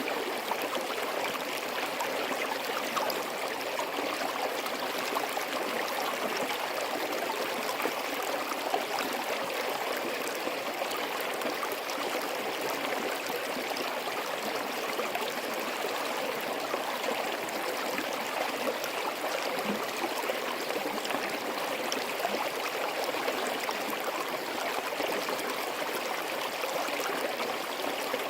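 Small forest stream running and gurgling over rocks, a steady babble of flowing water with small splashes, between snowy and icy banks.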